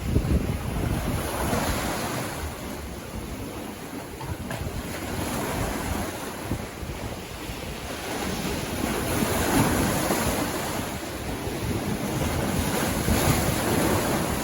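Sea waves breaking and washing up on a beach, the surf swelling and easing every few seconds, with wind rumbling on the microphone.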